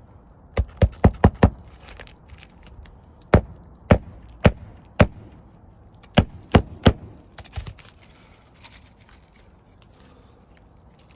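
Hammer blows driving roofing nails through a replacement three-tab shingle: a quick run of about five blows, then four evenly spaced blows, then three more and a last lighter one.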